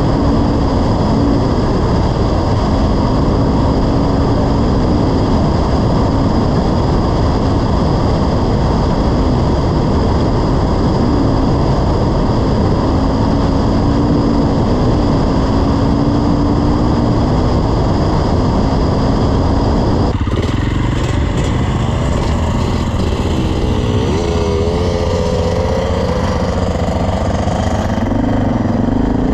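Dirt bike engine running while riding, under heavy wind noise on the microphone. The engine note holds fairly steady, then after an abrupt change about two-thirds of the way through it rises and falls as the throttle is worked.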